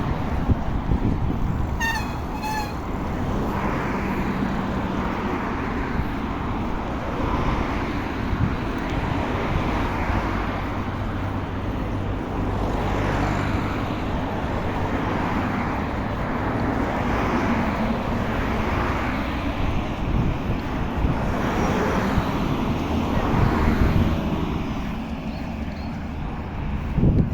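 Road traffic noise and wind rush heard while cycling along a road, with cars passing, and two short high chirps about two seconds in.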